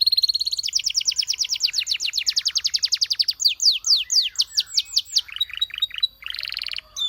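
Domestic canary singing a run of phrases. It opens with a fast buzzy trill, goes into a long series of rapid repeated notes, then slower downward-swept notes, and closes with another buzzy trill.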